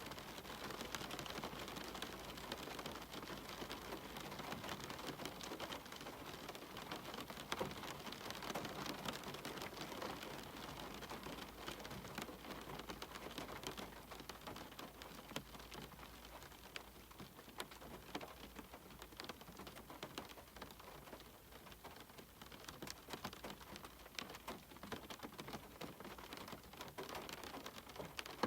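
Steady rain: a constant hiss of falling rain with many separate drops ticking close by.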